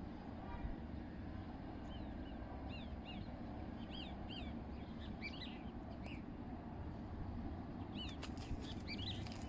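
Small birds chirping: short, quick rising-and-falling chirps repeated many times, thickest near the end, over a steady low background rumble.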